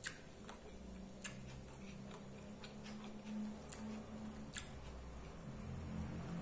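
Chewing a mouthful of homemade hamburger with the mouth closed: faint, irregular wet mouth clicks and smacks, about one every half second to second.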